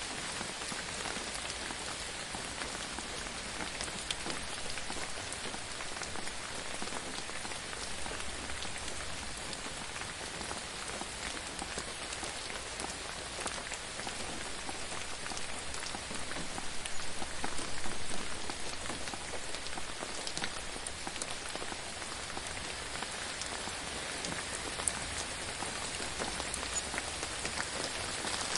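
Steady rain falling on a surface, with many small drop ticks, a little heavier for a couple of seconds past the middle.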